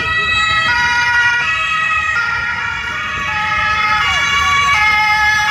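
German police two-tone siren (Martinshorn) sounding loudly, switching back and forth between a high and a low note at an even pace, over the low hum of road traffic.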